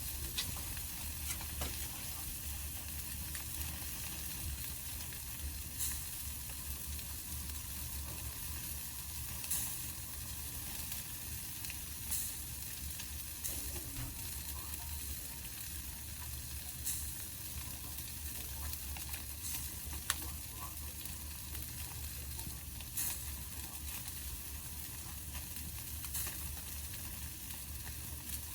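Wood campfire burning with a steady hiss and scattered sharp crackles every few seconds.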